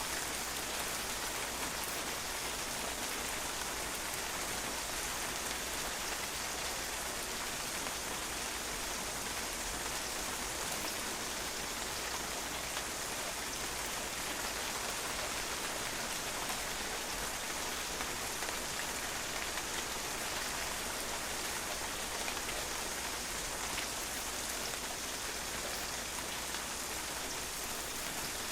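Steady rain falling on a patio, water drops pattering and bouncing off the hard surface in an even, dense hiss with no let-up.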